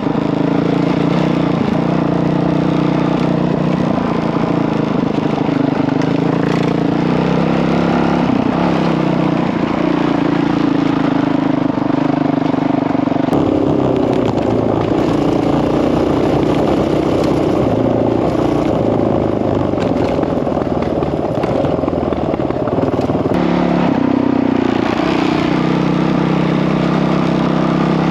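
Honda CRF single-cylinder four-stroke dirt bike engine running while being ridden, its note rising and falling as the throttle is opened and closed.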